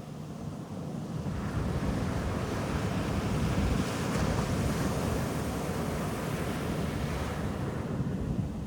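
Ocean surf on a beach: a wave swells up about a second in, is loudest midway, and washes out near the end, over a low rumble of wind on the microphone.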